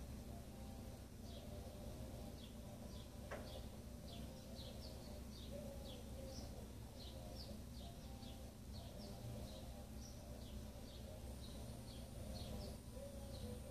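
Faint chirping of small birds, a few short, high, falling chirps a second, over a steady low electrical hum.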